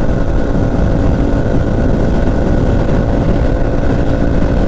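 Small Herald motorcycle's engine running at a steady cruising speed, its note holding one pitch.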